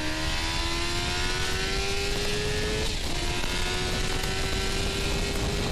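Suzuki GSX-R750's inline-four engine accelerating hard, its pitch climbing steadily. About three seconds in it drops with an upshift, then climbs again. Steady wind rush over the rider's helmet microphone.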